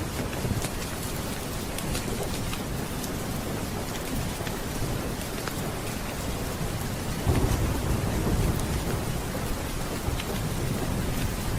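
Steady rain falling, with a low rumble of thunder rising about seven seconds in and lasting a couple of seconds.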